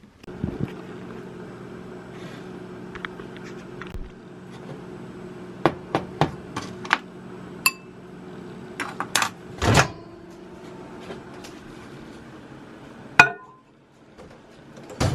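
Microwave oven running with a steady hum, with scattered clicks and knocks of dishes being handled; the hum cuts off about 13 seconds in, followed by a sharp click.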